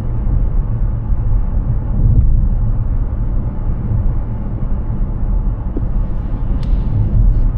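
Steady low rumble of tyre and road noise from a Hyundai Ioniq 6 electric car driving, with no engine note. A brief faint click comes near the end.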